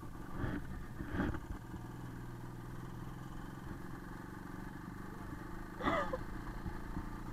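IZh Planeta motorcycle's single-cylinder two-stroke engine running steadily at low revs. Three short sounds with a falling pitch come over it, once near the start, once about a second in, and again near six seconds in.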